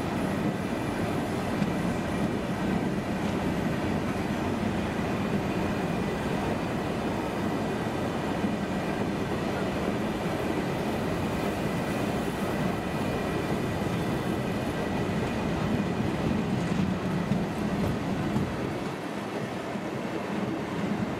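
Freight train of MHA box wagons rolling steadily past at speed, a continuous rumble of wheels on rails with a faint high tone above it.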